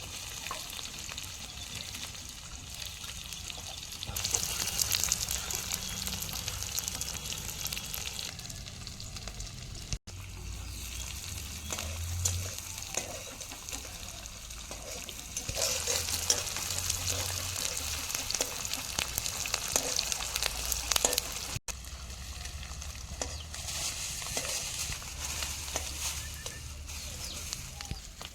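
Food frying and sizzling in a cooking pan: a steady hiss full of fine crackles. It breaks off sharply twice and resumes.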